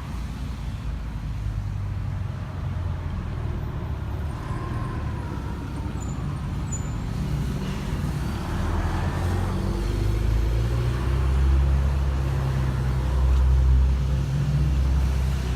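Cummins 4BT 3.9-litre four-cylinder diesel engine running steadily, growing louder and heavier about halfway through.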